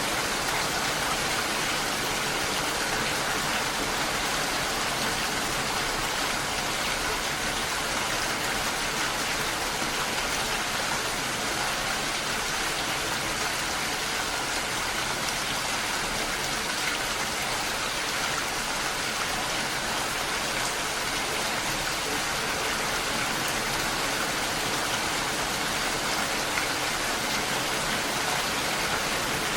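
Steady rain falling, an even wash of noise.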